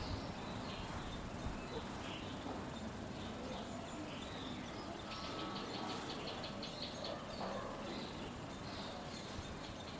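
Small birds chirping over a steady background hiss, with a quick run of high chirps about halfway through.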